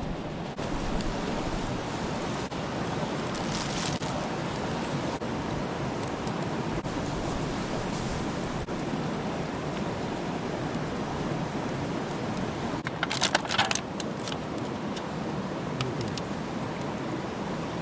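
Wood campfire burning with a steady rushing hiss. A brief flurry of sharp clicks comes about thirteen seconds in.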